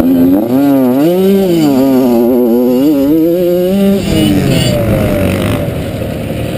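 Motocross bike engine revving up and down as the rider works the throttle, its pitch rising and falling; about four seconds in the pitch drops and it gets a little quieter as the engine eases off.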